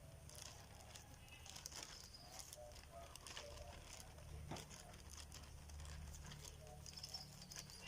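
Near silence: a steady low hum with a few faint short calls and soft clicks in the background.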